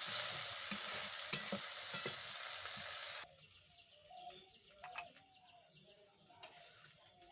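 Chicken liver and potato kosha sizzling in a kadai while a spatula stirs it, with sharp clicks of the spatula against the pan. The sizzling cuts off suddenly about three seconds in, leaving only faint background with a few soft clicks.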